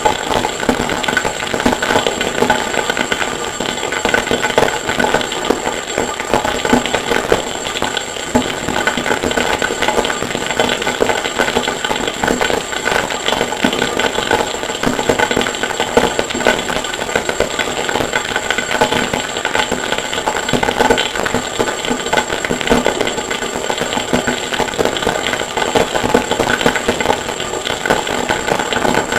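Harsh noise music made from processed forge and anvil recordings: a dense, unbroken wall of distorted crackling noise with a steady high whine above it.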